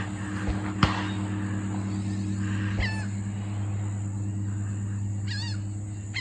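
A bird gives short falling chirps three times over a steady low hum, with a single sharp click about a second in.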